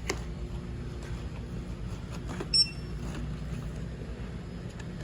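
A checkout barcode scanner beeps once, short and high, about two and a half seconds in, over a steady low hum.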